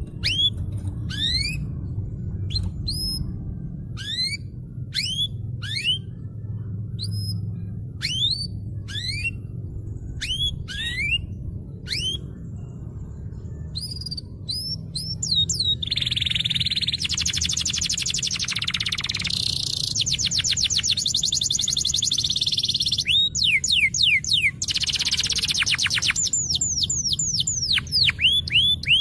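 Domestic canary in full song: spaced, rising whistled chirps for about the first half, then from about halfway through fast continuous trills and rolls. A steady low hum runs underneath.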